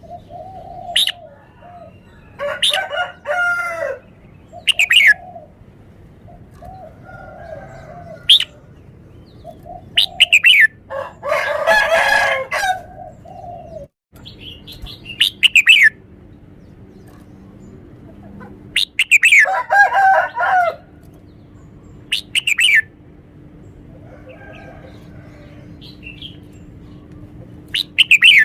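Red-whiskered bulbul singing: short, clear song phrases, three of them longer and louder, between sharp falling chirps repeated every couple of seconds, with short lower calls in the gaps.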